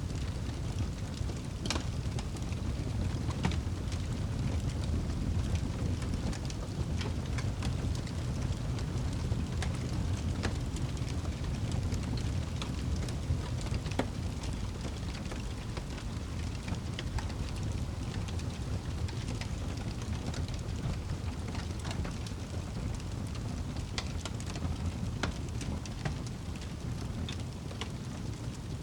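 Wood fire in a fireplace crackling: a steady low rumble with sharp pops and crackles scattered at irregular times.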